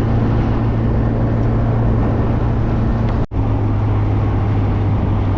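Small car's engine running steadily under way, with road noise, heard from inside the car, likely the MG Midget being driven. The sound breaks off for an instant about three seconds in, and the engine note is slightly lower afterwards.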